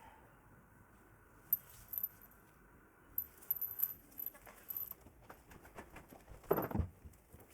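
Light metallic clinks and taps of small metal parts being handled, with a faint steady whine during the first few seconds and a louder knock near the end.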